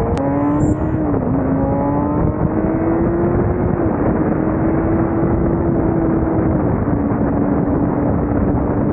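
Motorcycle engine running while riding, its pitch climbing and dropping briefly a few times, over a heavy rush of wind noise.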